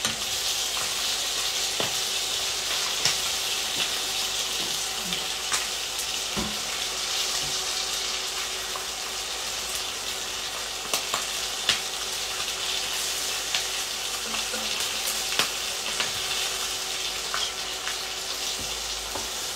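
Marinated chicken wings sizzling steadily as they fry in oil in a pan, with a few sharp clicks of metal tongs against the pan as the wings are turned.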